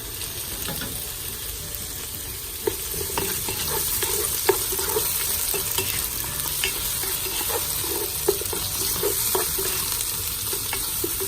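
Chopped tomatoes sautéing in hot oil with garlic, onion and ginger: a steady sizzle, a little louder about three seconds in, with frequent short scrapes and clicks as the pan is stirred.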